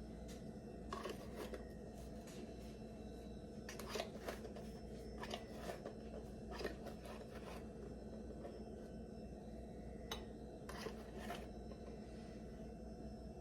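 Faint, scattered clicks and scrapes of a measuring spoon scooping dried dill and tapping it into the pickle jars, in a few short clusters over a low steady hum.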